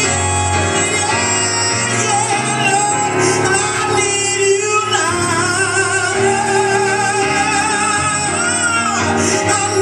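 Recorded gospel ballad playing, with a singer holding long notes with vibrato over a full band accompaniment between sung lines.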